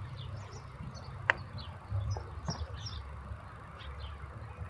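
Small birds chirping here and there over a low steady rumble, with one sharp click about a second in.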